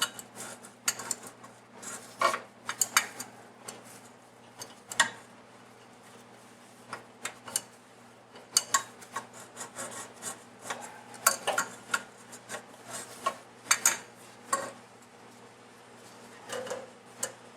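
Hand tools clicking, clinking and scraping against metal in irregular bursts while working on the vehicle's hardware, over a low steady hum.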